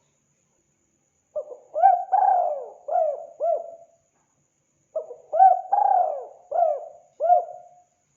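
Spotted dove cooing: two phrases of about five short, arching coos each, the first starting about a second in and the second about five seconds in, with a pause between.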